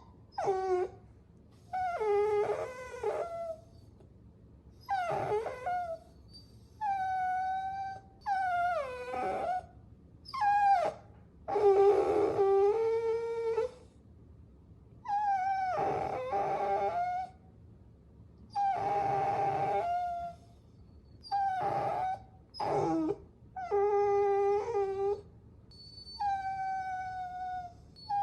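Puppy whining: over a dozen high, drawn-out cries, each half a second to two seconds long, some sliding down in pitch, with short pauses between them.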